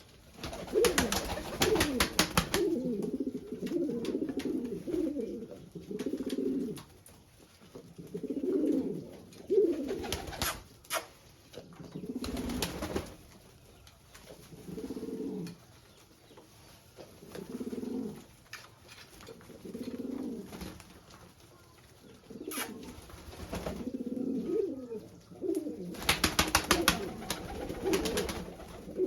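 Domestic fancy pigeons cooing over and over, in low warbling phrases of a second or two each. Short bursts of broad noise cut in now and then, the longest near the start and near the end.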